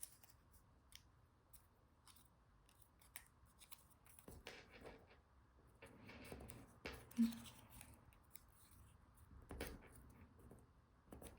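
Small sheet of origami paper being folded and creased by hand: faint rustles and small crisp clicks of paper, in a few short patches.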